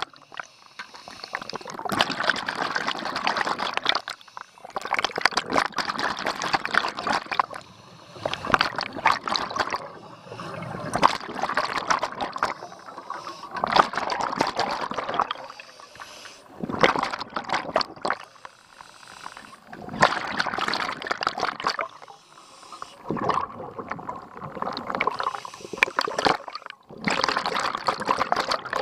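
Scuba regulator exhaust bubbles rushing out in repeated bursts of a few seconds each, with short pauses between, as a diver breathes underwater.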